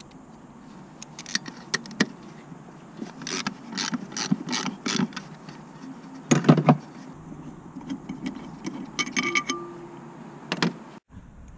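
Metal tools and parts being handled: a run of clicks and knocks, several in quick succession, with the loudest knock about halfway through and a short metallic ring a few seconds later.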